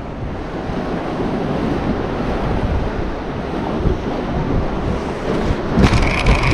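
Surf washing on the shore with wind buffeting the microphone. Near the end comes a brief higher-pitched rasp with a few clicks.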